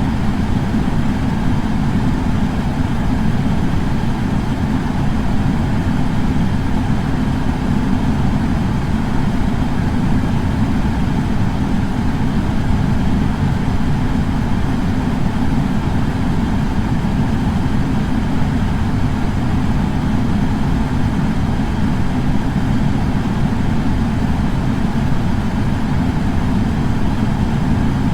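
Air purifier fan running steadily, a constant deep rush of air.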